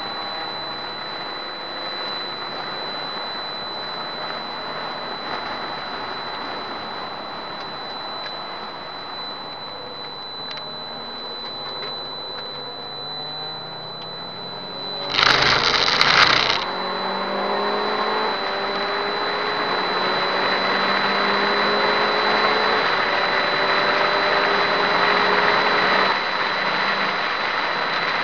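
Subaru Impreza WRX STI S204's turbocharged flat-four engine, heard from inside the car under hard track driving, its pitch rising and dropping with the gear changes. About fifteen seconds in there is a loud rough rumble for over a second, then the engine note climbs steadily as the car accelerates.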